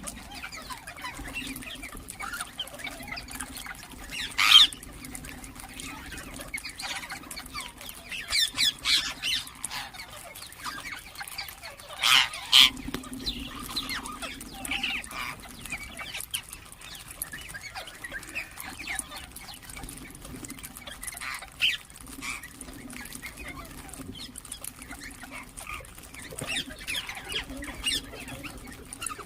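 Ringneck parakeets calling: short, sharp screeches scattered through, loudest about four seconds in and again around twelve seconds, with softer chirps between them over a steady low hum.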